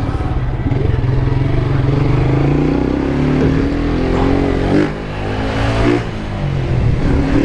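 Honda CG 160 motorcycle's single-cylinder engine pulling under throttle while riding. Its pitch rises, drops suddenly about five seconds in and again about a second later, as it shifts up through the gears.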